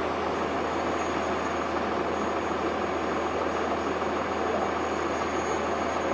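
Cummins ISC diesel engine of a 2002 Blue Bird transit bus running steadily, heard from inside the bus, with an even level and no change in pitch.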